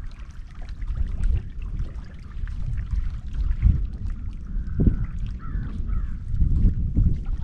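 Low, uneven rumble of wind and water noise on the boat's microphone, with a few harsh bird calls about five to six seconds in.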